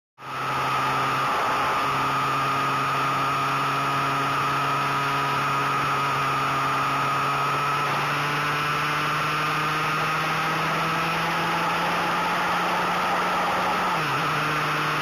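2005 Suzuki Bandit 1200's inline-four engine running under way, its pitch climbing slowly and steadily as the bike gathers speed, with a brief drop and recovery near the end.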